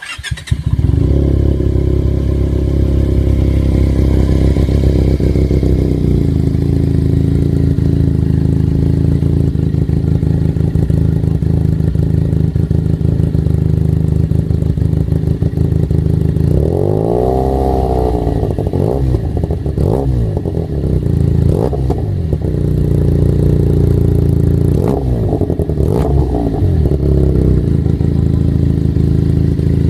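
Benelli TNT 300 motorcycle's parallel-twin engine starting up and idling through a different exhaust. One long rev, rising and falling, comes a little past halfway, followed by several short throttle blips.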